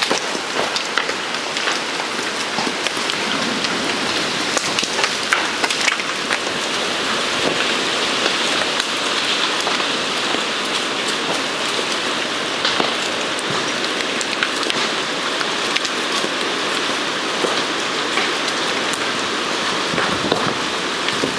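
Hail and heavy rain falling on surfaces: a steady, dense hiss with many sharp ticks from individual stones striking.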